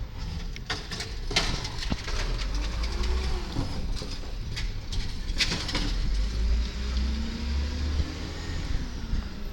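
Garbage truck engine running with a heavy low rumble that swells through the middle, with several sharp knocks and clatters and faint gliding whines, as from the lift arm and hopper working.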